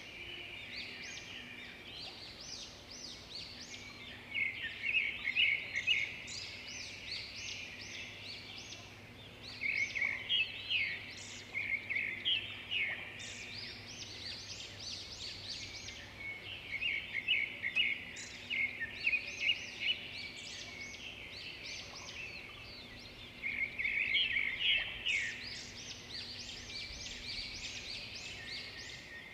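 Songbirds chirping and singing in a dense chorus of quick, high chirps and short trills, swelling into louder clusters every few seconds.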